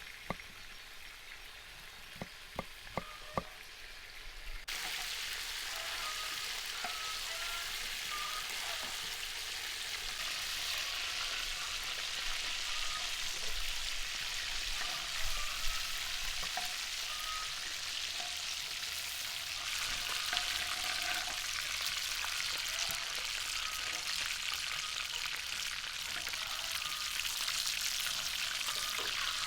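A few sharp taps, then about five seconds in a sudden jump to loud, steady sizzling of meat frying in hot fat.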